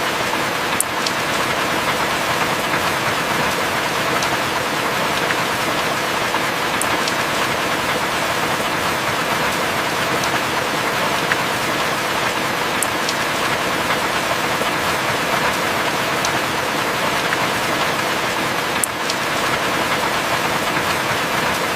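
Heavy rain falling steadily, an even dense hiss with a few sharper single drop ticks scattered through it. No thunder.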